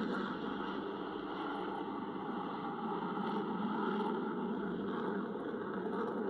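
Jet noise from a USAF F-22 Raptor flying its display, a steady rushing sound from its two Pratt & Whitney F119 turbofan engines that rises and falls gently.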